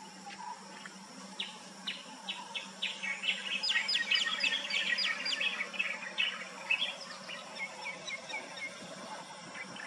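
Wild birds calling: a rapid series of short high chirps and whistled notes that builds to a dense chatter about four to five seconds in, then thins out into scattered notes.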